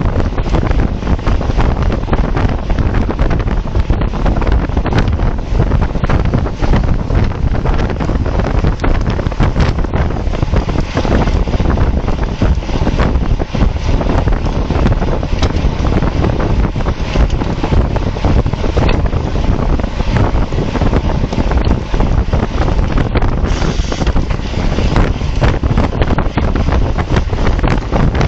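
Loud, steady wind noise buffeting a bike-mounted camera's microphone while riding a road bike at speed.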